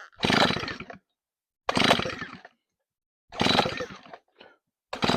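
Stihl 034 two-stroke chainsaw being pulled over on its recoil starter, four pulls about a second and a half apart, each a short burst of the engine turning over without catching. The engine is being cranked on choke with little or no spark from the ignition.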